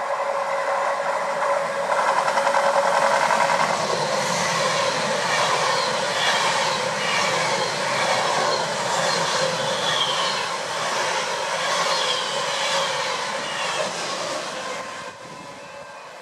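Intercity train of white passenger coaches passing close along the platform: a steady rush of wheel and rail noise with rows of clicks as the wheels cross rail joints. The sound falls away about fifteen seconds in.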